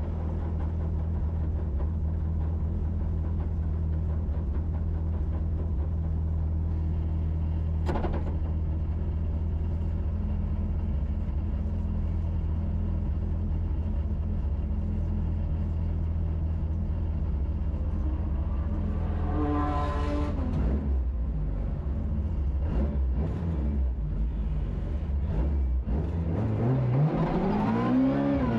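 Rally car engine idling steadily at a stage start, heard from inside the cabin, with a brief sharp sound about eight seconds in. About twenty seconds in the engine revs up once and drops back, and near the end the revs climb as the car pulls away.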